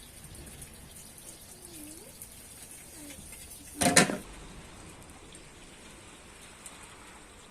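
Steady hiss of rain, with one short loud clatter, something set down or knocked, about four seconds in.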